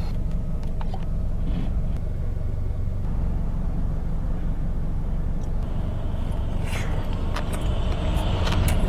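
Steady low rumble of a car's engine heard from inside the cabin, with a few faint clicks.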